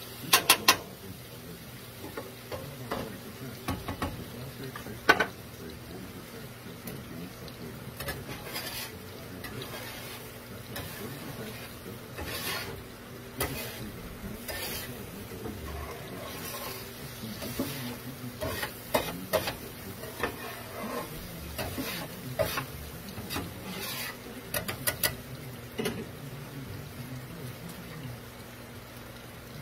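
Beef strips in sauce sizzling in a cast iron skillet over medium heat, stirred with a spatula that scrapes and taps against the pan. Sharp clicks come now and then: a quick cluster right at the start, a loud one about five seconds in, and several more in the last third.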